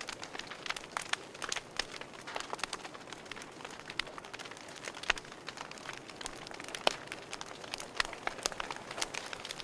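Wood fire crackling in a fireplace: irregular sharp pops and snaps over a soft, steady hiss of burning, with a few louder pops in the second half.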